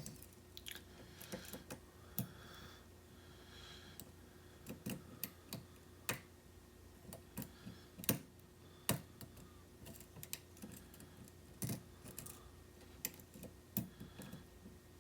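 Faint, irregular clicks and taps of a hook pick working the pins of a pin tumbler challenge lock held under a tension wrench, with an occasional light metal scrape.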